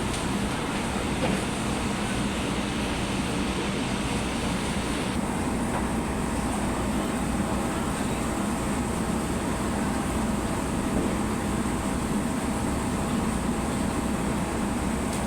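Steady machinery running noise with a low hum; some of the higher hiss drops away about five seconds in.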